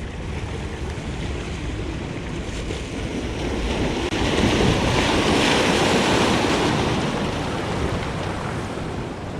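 Sea waves washing onto a rocky shore, one surge building about halfway through and then easing, with wind buffeting the microphone.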